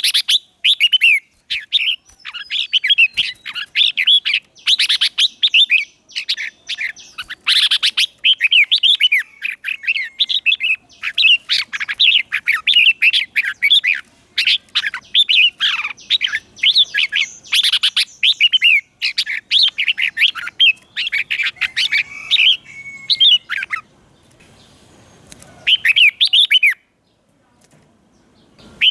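Red-whiskered bulbul singing a run of quick, bubbly warbled phrases with short breaks between them, then pausing a couple of times near the end. It is the song of a decoy bulbul, used to call wild bulbuls in.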